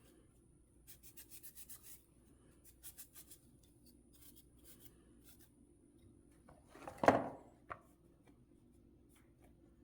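Scotch-Brite pad scrubbing a ring from a truck's rear wheel hub in quick back-and-forth strokes, in short spells, then lighter scattered rubs. One sharp knock about seven seconds in.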